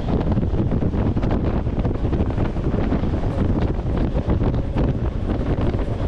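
Wind buffeting a microphone held out of a moving train's open window, over the steady rumble of the carriage running on the track with frequent short clatters.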